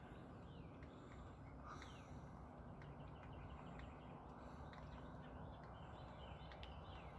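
Faint songbirds calling: several short downward-sliding whistles and a quick run of chirps, over a low steady rumble.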